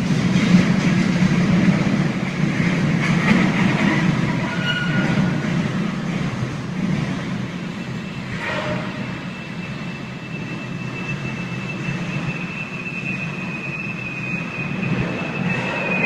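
Empty freight-train hopper cars rolling past with a steady low rumble. A sharp clank comes about eight seconds in, followed by a steady high-pitched wheel squeal.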